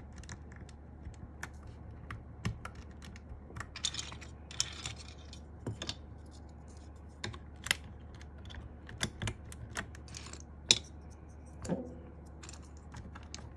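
Keycaps being pressed onto the mechanical switches of a Sky87 keyboard: irregular sharp plastic clicks, a few at a time, with a brief rustle of handling near four seconds in.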